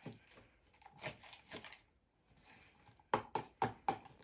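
Handling noise from puppets and props: faint rustling, then a quick run of sharp taps and knocks near the end, about four a second.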